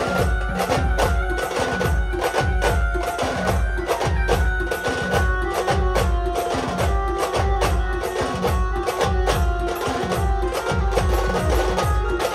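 A Maharashtrian band playing a sambal kawadi rhythm: sambal drums beat steadily and heavily, with a sustained melody line over them.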